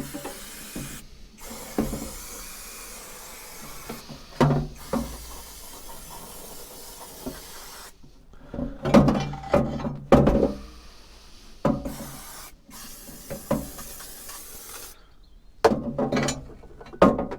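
Aerosol engine degreaser sprayed in long bursts, a steady hiss, broken by short pauses. In the second half the spraying is shorter, with knocks and clunks between the bursts.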